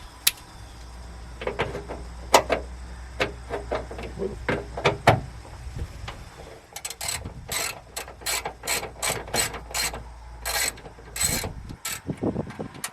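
Socket ratchet clicking as a nut on a starter solenoid is worked. There are a few scattered clicks, then a run of quick, fairly even strokes at about three a second through the second half, over a low steady hum.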